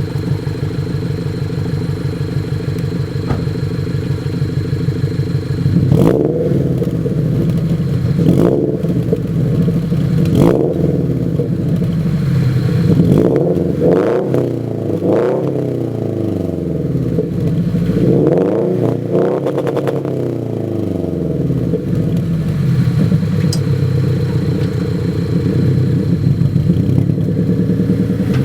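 Subaru BRZ's flat-four boxer engine, breathing through an unequal-length Borla header and a muffler delete, idling and then revved in a series of short throttle blips from about six seconds in, each rising and falling back, before settling to idle for the last several seconds. The header has a slight exhaust leak from warped flanges.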